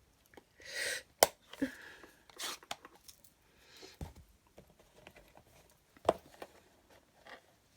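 Craft supplies being handled on a desk: a few sharp plastic clicks and soft rustles of paper.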